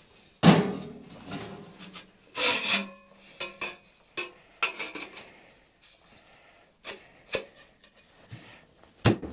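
Nested sheet-metal stovepipe sections of a hot tent stove being handled and slid apart or together. There is a sharp knock about half a second in, then rubbing and scraping with scattered clicks and knocks, and two more sharp knocks near the end.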